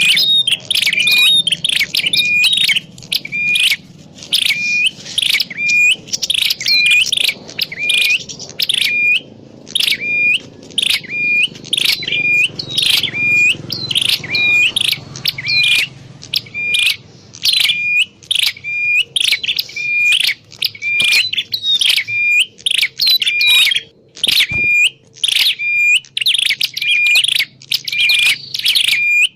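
Prenjak klawu, a prinia, calling: a sharp hooked chirp repeated over and over, about once a second, without a break. A lure call for drawing in wild prinias.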